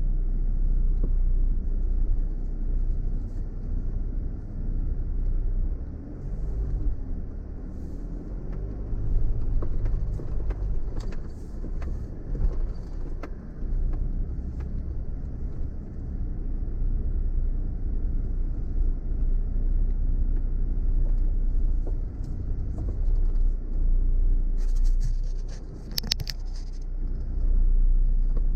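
Off-road vehicle driving over a rough track: a steady low engine and tyre rumble, with the engine pitch rising and falling a few times. Scattered knocks and rattles come from the bumpy ground, and there is a short high hiss near the end.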